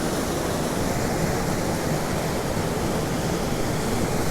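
A large waterfall rushing steadily.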